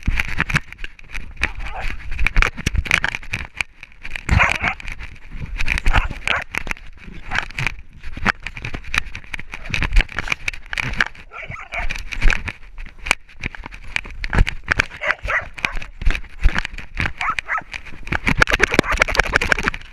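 A dog heard close up, among a dense run of short knocks and scuffs that stops abruptly near the end.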